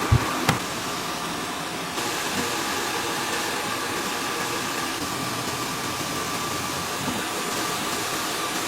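Computerised sock knitting machines running with a steady mechanical whir and hiss. Two sharp knocks come just after the start.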